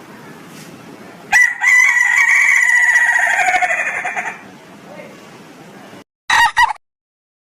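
Ayam ketawa (laughing chicken) rooster crowing: one long crow of about three seconds with a rapid rolling, trilled quality that slowly falls in pitch. A brief two-part sound follows near the end, then the sound cuts off.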